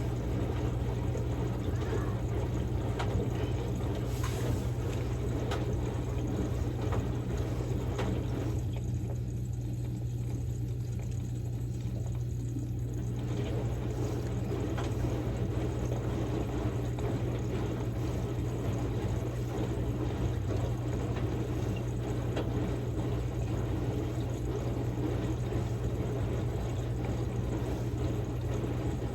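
Samsung Grande washing machine running a quick-wash cycle on a padded jacket: a steady low motor hum with water sloshing and swishing as the drum turns. The sloshing stops for about four seconds partway through while the hum carries on, then resumes.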